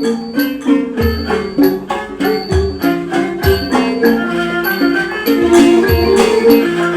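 Thai traditional ensemble playing a homrong overture: a busy line of pitched melody notes over a steady pulse of high ringing strokes about twice a second and low drum beats.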